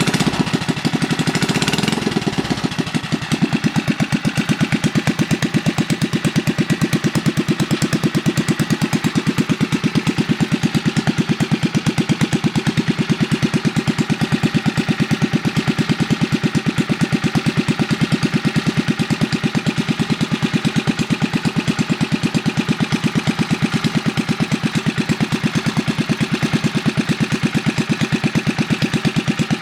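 Briggs & Stratton 3 HP single-cylinder four-stroke engine with a home-made exhaust, running steadily with evenly spaced exhaust pulses. It is briefly uneven in the first couple of seconds, then settles.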